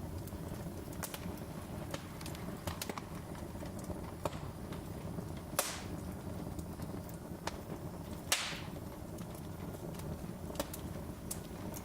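Wood fire crackling in a fireplace: scattered sharp pops and snaps over a low steady rumble, with two louder pops about five and a half and eight seconds in, the second trailing a brief hiss.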